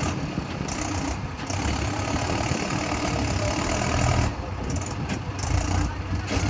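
Mahindra tractor's diesel engine running steadily, briefly dipping in level about four seconds in.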